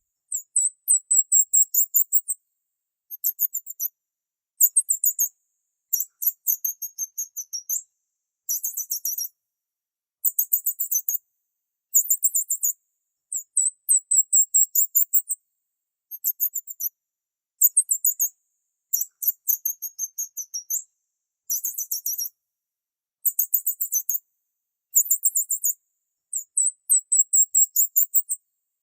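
A small bird chirping in short, rapid, very high-pitched phrases, each a quick run of chirps about a second long, repeated every couple of seconds with silent gaps in between.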